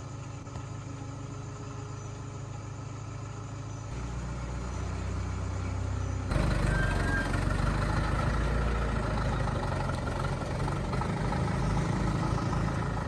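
Truck engine running steadily after its repair. It grows louder in two steps, about four seconds in and again about six seconds in, then holds at the higher level.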